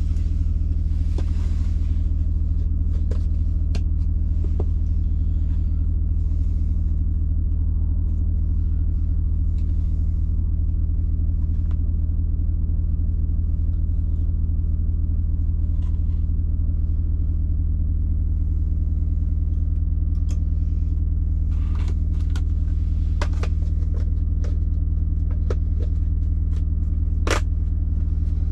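Steady low engine rumble, like a truck or refrigeration unit idling, with scattered light clicks and knocks of things being handled.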